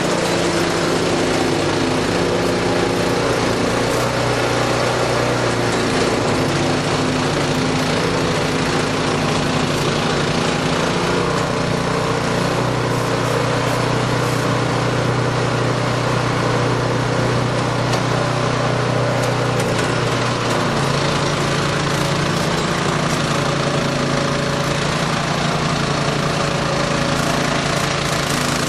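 Engine of a snow-clearing machine running steadily under load, its pitch shifting a few times as the engine speed changes, over a broad rushing noise.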